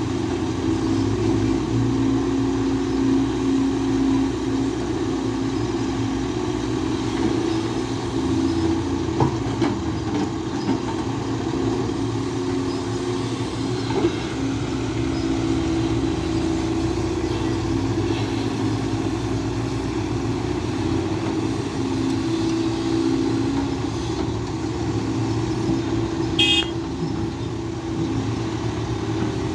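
SANY SY215C excavator's diesel engine running steadily under working load. About 26 seconds in there is a brief high-pitched toot.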